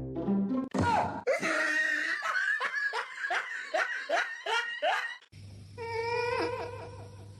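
A person laughing hard in a run of rhythmic, falling bursts. About five seconds in, it cuts off abruptly to a steady low hum with a few short pitched sounds over it.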